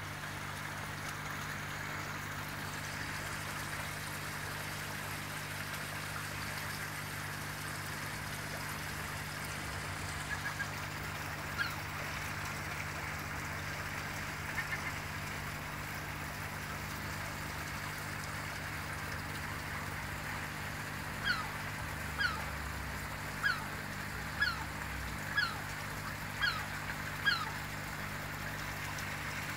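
A bird calls in short, falling notes, a few faint ones midway and then about eight louder ones spaced roughly a second apart near the end, over a steady low hum.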